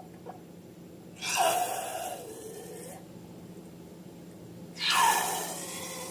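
Two hissing, squirting gushes, one about a second in and one near the end, each lasting about a second and a half: filling or air being squeezed out through a balloon's neck while making slime.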